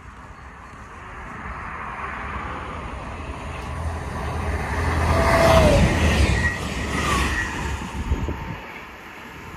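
Passenger train running through the station without stopping. Its rumble builds to a peak about five to six seconds in and then fades as it goes away, with a short whine dropping in pitch as it passes.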